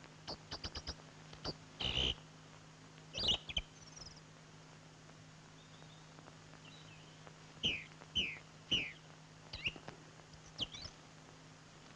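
Woodland birds calling: short chirps and clicks, then several quick downward-sweeping whistles about two-thirds of the way through, over a steady low hum from the old soundtrack.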